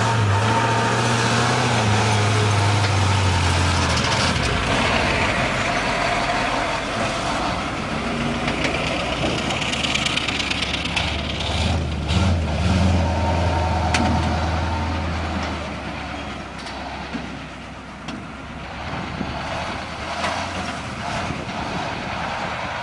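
KrAZ-255B 6x6 truck's V8 diesel engine running, a steady low drone that drops away after a few seconds and returns about midway, under a lot of mechanical and rumbling noise. It gets quieter near the end.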